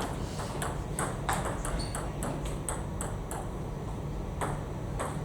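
Table tennis ball clicking in a quick run of light ticks, about three a second, as it is struck and bounces off the table during a rally. It breaks off after about three and a half seconds, with one more tick near the end.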